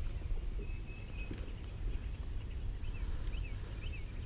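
A small bird calling in a quick run of short, repeated chirps in the second half, over a steady low rumble. A single light knock comes a little after one second in.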